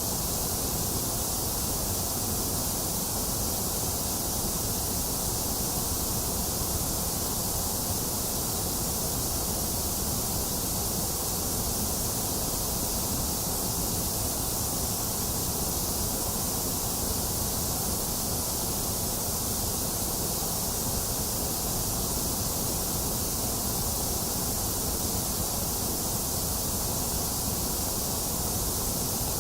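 Steady electronically generated white noise: an even, unchanging hiss, with no breaks or events.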